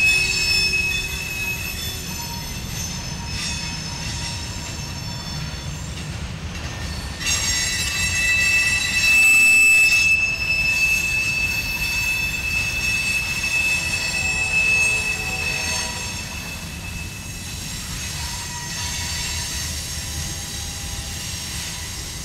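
Freight train cars (covered hoppers and tank cars) rolling past with a steady low rumble of wheels on rail. Over it come high, steady steel wheel squeals that fade a couple of seconds in, return strongly about a third of the way through, and drop to a fainter, lower squeal near the end.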